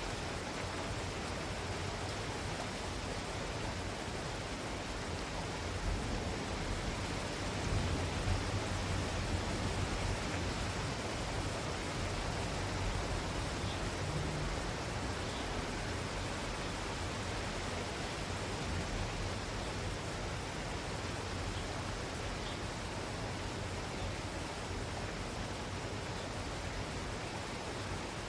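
Steady rain falling, an even hiss with no breaks, with a low rumble swelling briefly about a quarter of the way in.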